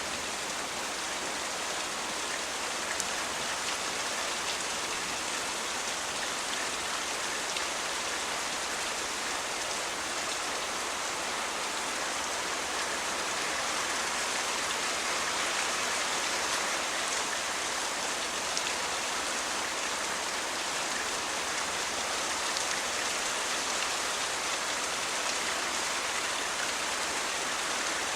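Steady rain falling, an even hiss of many drops that does not change over the stretch.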